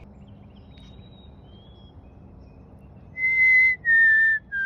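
A person whistling close by: two long, clear notes about three seconds in, the second slightly lower, with breath audible around them. Faint bird calls in the background before them.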